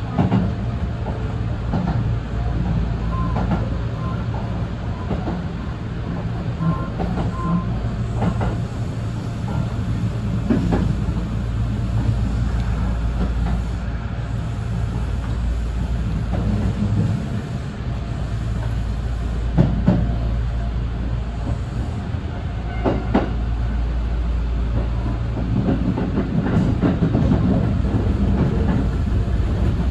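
Inside the front car of an electric express train running along the track: a steady low rumble from wheels and running gear, with a few sharp clicks as the wheels cross rail joints and points.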